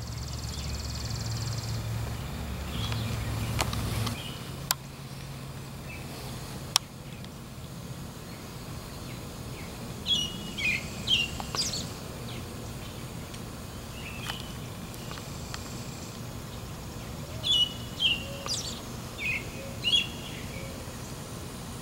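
Outdoor ambience with a songbird chirping in short bursts of quick, sliding notes, one bout about halfway through and another near the end. A low hum fades out a few seconds in.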